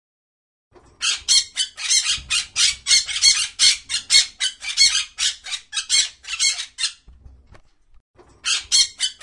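A bird squawking in a fast series of harsh calls, about four or five a second. The calls break off for a second or so near the end, then start again.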